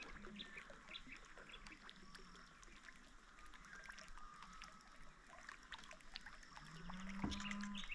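Faint water trickling and dripping, with many small scattered ticks and a brief low hum about seven seconds in.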